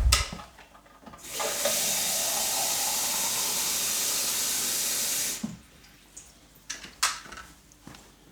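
Water running from a tap into a coffee machine's removable water container for about four seconds, then shut off. A knock just before and a couple of knocks after as the container is handled.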